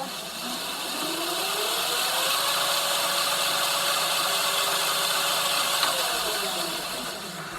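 Dirt bike's motor spun up with the bike on a stand and its rear wheel turning free: a whine rises over about two seconds, holds steady at full throttle, then falls away near the end, with a steady hiss over it.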